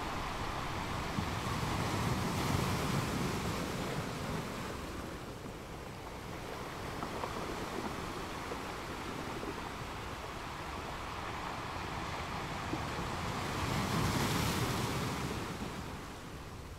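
Ocean surf: the rush of large waves breaking, swelling about two seconds in and again near the end.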